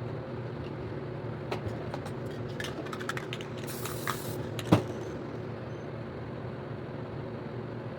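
Short burst of spray-can hiss a little before halfway, among scattered clicks of can and tool handling, then a sharp knock just after, the loudest sound. A steady low hum underlies it all.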